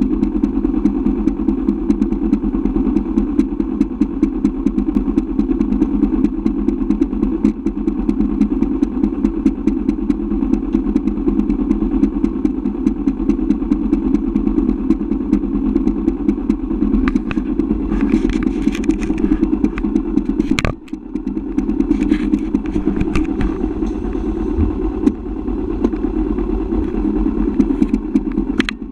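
Motorcycle engine running steadily, its rapid firing pulses heard close from a camera mounted on the bike. A sharp click about 21 seconds in, with a brief drop in the engine sound.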